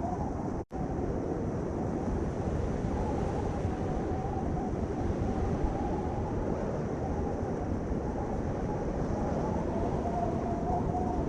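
Steady rumbling noise with a faint wavering tone over it, which cuts out for an instant just under a second in.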